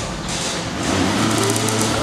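Stunt-show vehicle engines running, with wavering pitch early on and a steady low drone setting in about a second in.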